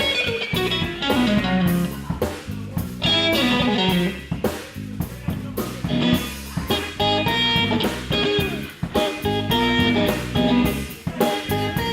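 Live blues band playing an instrumental passage with no singing: electric guitar with notes bent up and down in pitch, over bass guitar and drum kit keeping a steady beat.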